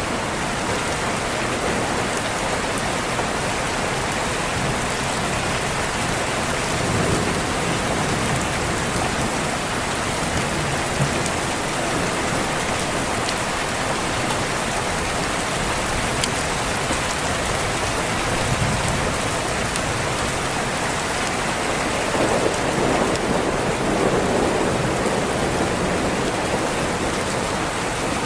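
Steady, heavy rain falling on a window, with low rolls of thunder swelling a few times, the strongest near the end.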